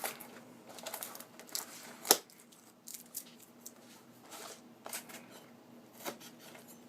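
Phone-case retail packaging being handled and pried open: scattered crinkles and light clicks, with one sharp knock about two seconds in.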